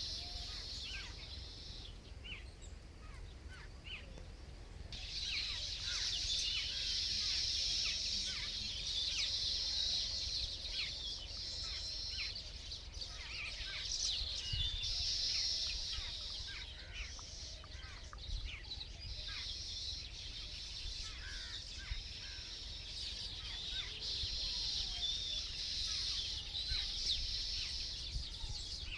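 Many small birds chirping and calling together in a dense chorus, with a high shimmering band of sound that swells and fades every few seconds. A low rumble runs underneath.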